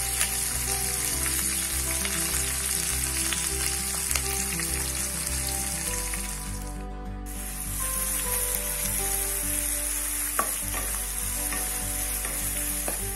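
Sliced onions, green chillies and curry leaves sizzling loudly in hot oil in a kadai. The sizzle briefly cuts out about seven seconds in, and a few scraping knocks near the end come from a wooden spatula stirring them.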